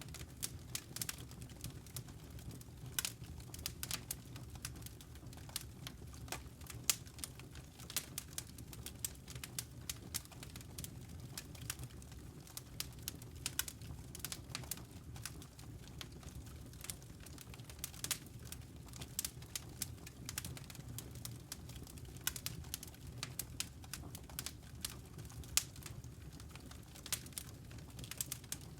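Campfire burning, the wood crackling with many irregular sharp pops and snaps over a low steady rumble.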